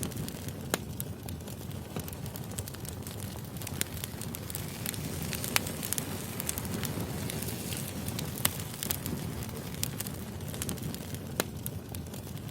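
Firewood burning, crackling with irregular sharp pops over a steady low rush of flame.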